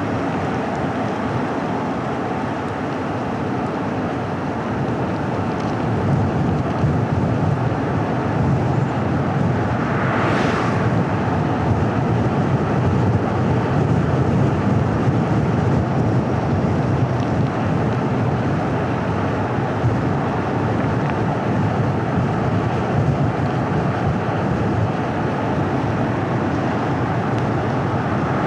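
Car driving along a winding paved road: steady tyre and road noise with a low engine hum that grows a little louder about six seconds in. A short hissing swell comes about ten seconds in.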